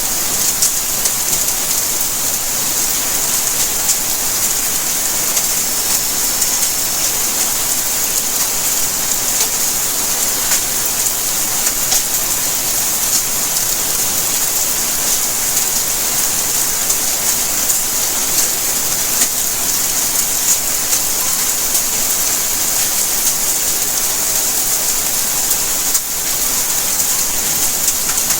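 Steady rain falling on surfaces: an even hiss with many small drop impacts.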